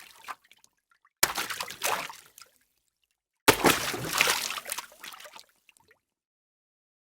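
Two bursts of sloshing water, each starting sharply and trailing off; the second, about two seconds later, is longer.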